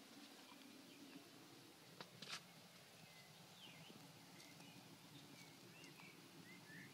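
Near silence with faint bird chirps: a few short calls sliding up and down in the second half, and two soft clicks about two seconds in.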